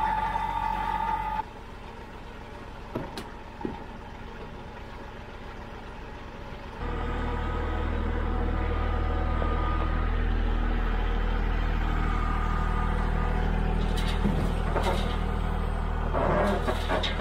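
Compact diesel tractor engine running while it works its loader to lift and tip totes of firewood, with a whine over the engine. A quieter stretch with a couple of knocks comes before the engine note steps up about seven seconds in and holds steady.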